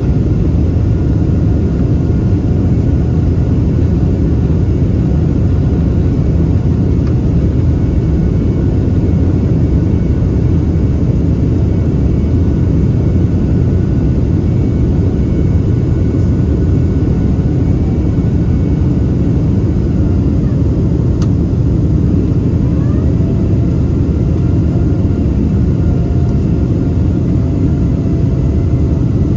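Boeing 767-300ER jet engines running: a steady, loud rumble with faint steady whine tones above it, holding an even level throughout.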